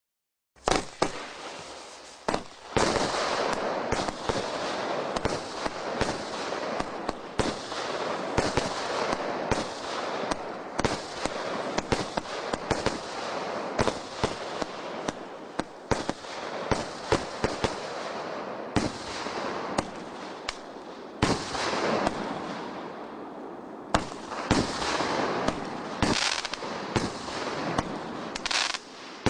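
Multi-shot fireworks cake of 36 tubes (25 mm and 40 mm calibre) firing: a rapid run of launch thumps and aerial bursts over dense crackling stars, starting about half a second in and going on without a break.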